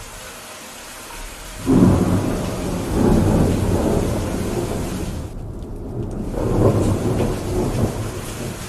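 Steady rain with a roll of thunder that breaks in suddenly about two seconds in and rumbles on in waves.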